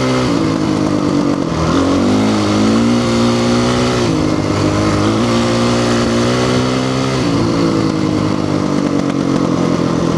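Honda CRF450 dirt bike's single-cylinder four-stroke engine under way, the revs rising and falling with the throttle several times, then settling at a lower, steady pitch for the last few seconds.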